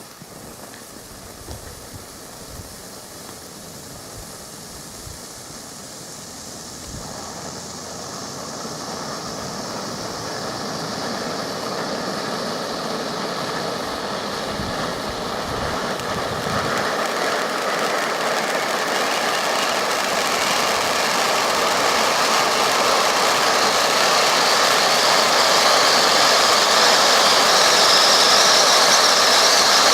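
Titanium volcano firework fountain burning, its steady hissing spray of sparks growing louder and louder throughout.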